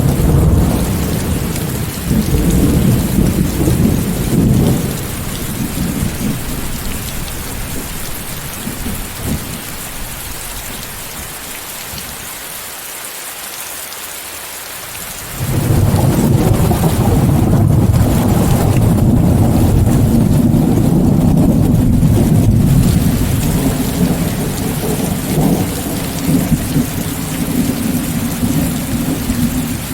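Steady rain hiss, mixed with white noise, under rolling thunder. A low rumble fades away over the first ten seconds or so, then a second, louder rumble breaks in suddenly about halfway and slowly dies down.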